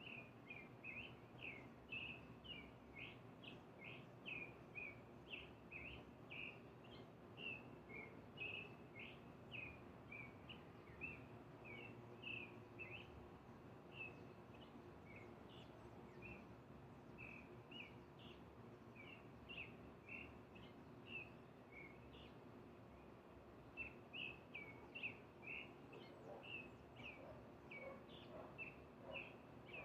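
Bird chirping: a long run of short, high notes at about three a second, with a brief break about two-thirds of the way through, over faint steady background hum.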